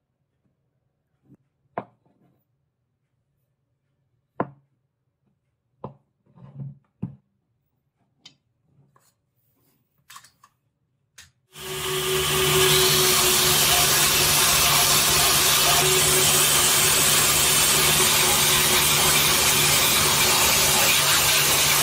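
Scattered light taps and clicks, then about halfway through an electric power tool starts up on steel and runs steadily. It makes a loud, even hiss over a steady hum.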